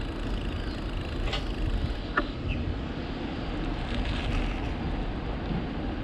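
Wind buffeting the microphone on a moving bicycle, a steady low rumble with a couple of faint ticks about one and two seconds in.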